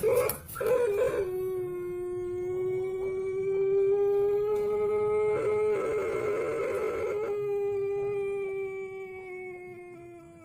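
Ayam pelung rooster crowing its long crow: a few short opening notes, then one long, steady call held for about ten seconds, rising a little in pitch in the middle and sinking slightly toward the end.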